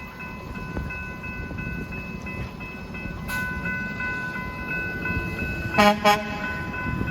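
Grade-crossing warning bells ringing steadily. About six seconds in, a horn gives two short toots in quick succession.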